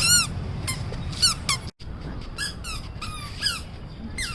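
Toddler's squeaky sandals squeaking with each step: short, high chirps that fall in pitch, about ten at an uneven toddling pace, with a brief break a little under two seconds in.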